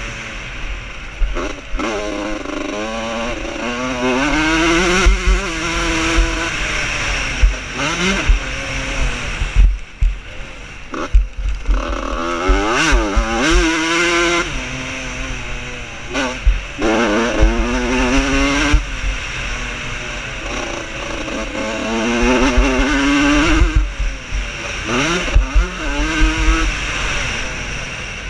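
Vintage motocross bikes racing, engines revving hard and falling back again and again as the riders accelerate and shift gears, with several bikes heard at once.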